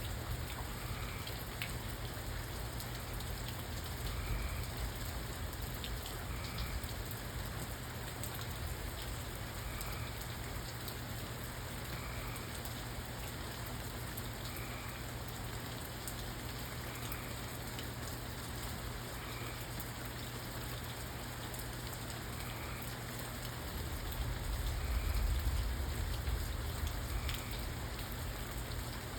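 Steady rain falling and pattering on surfaces, with faint soft tones recurring about every two and a half seconds. A low rumble swells for a few seconds near the end.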